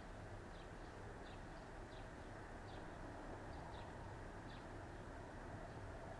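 A small bird giving faint, short, high chirps at an irregular pace, about one or two a second, over a steady low hum.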